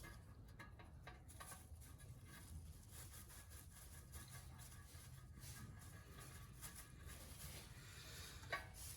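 Near silence with faint scattered ticks and rubbing, and one sharper click near the end.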